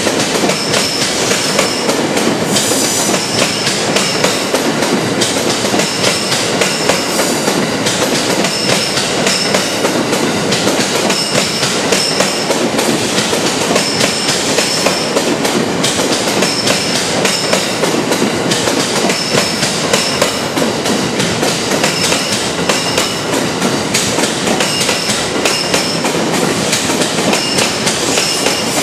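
Green-and-orange-striped JR East electric commuter train running past on the station track, its wheels clacking over rail joints in regular pairs under the steady rumble of the running train.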